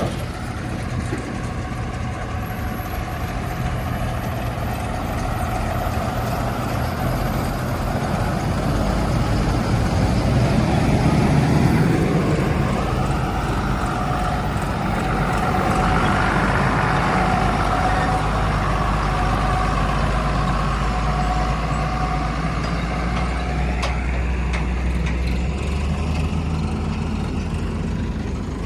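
Heavy diesel engine running steadily, rising in load about ten seconds in and again for several seconds around the middle, with a steady whine over the engine during the second rise.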